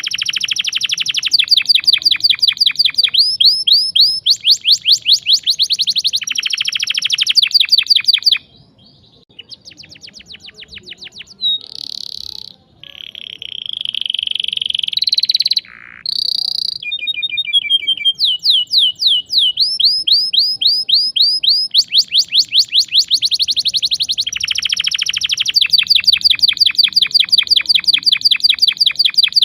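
Domestic canary singing a long song of fast rolling trills. About a third of the way in it drops quieter and gives a few longer whistled notes, then the fast rolls return.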